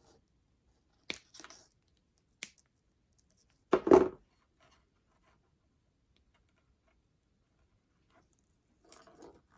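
Small metal clicks and ticks of pliers and sterling silver jump rings as a jump ring is closed, a few scattered strokes, with one louder short knock about four seconds in.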